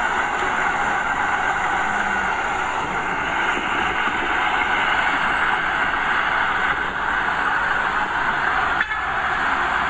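Diesel engine of earthmoving machinery running steadily under work, with one sharp click a little before the end.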